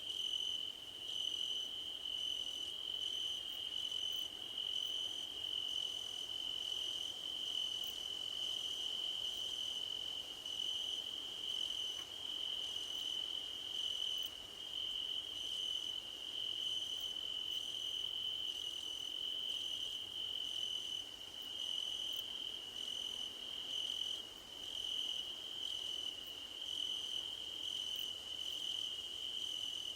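Field crickets singing: one steady, high, unbroken trill, with a higher chirp repeating evenly over it.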